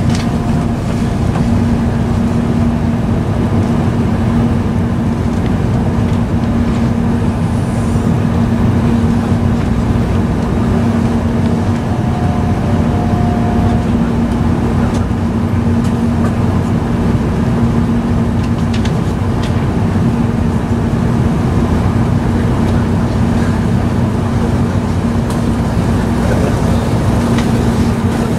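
E5 series Shinkansen running, heard inside the passenger cabin: a steady rumble of running noise with a constant low hum.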